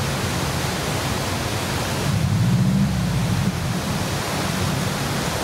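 Subaru Forester XT's flat-four engine running low and slow as the car crawls down over loose rocks, its drone swelling a little a couple of seconds in. A steady rushing hiss lies over it.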